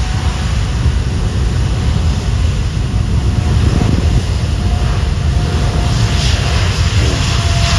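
Boeing 747's four jet engines running at takeoff power: a loud, steady rush of jet noise over a deep rumble, with a faint steady whine. The hiss grows brighter near the end.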